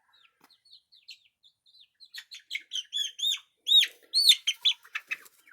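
Chicks peeping: soft, short, falling peeps about three a second at first, then from about two seconds in louder, arching peeps that come faster, loudest about four seconds in.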